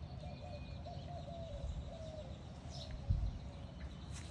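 A dove cooing repeatedly, with faint chirps from other birds, over a steady low rumble. There is a brief low thump about three seconds in.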